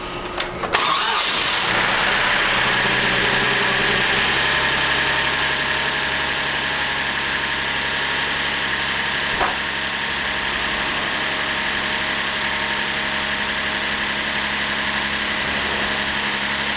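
Hyundai Genesis GDi V6 engine cranking briefly, catching and running at a raised speed, then settling into a steady idle. A single light click sounds about halfway through.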